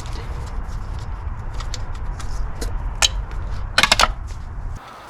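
Metal tools and fasteners clicking and clinking during work on a car's starter: scattered light clicks, one sharp clink about three seconds in and a quick run of louder clinks near four seconds. A low rumble underneath drops away near the end.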